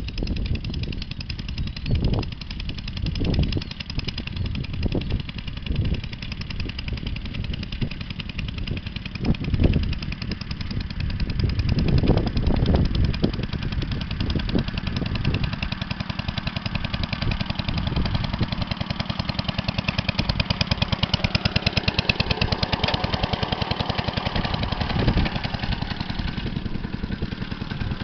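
Briggs & Stratton Model K single-cylinder engine on a 1937 Shaw D3T garden tractor, running with a fast, even firing beat. Through the first half, irregular heavier low thumps break in; after that it runs steadier.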